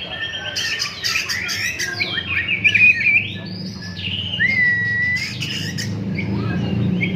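Oriental magpie-robin (kacer) in full song, pouring out a fast, varied string of whistles, trills and harsh chattering notes, with one long clear whistle about four and a half seconds in. A low steady hum runs underneath.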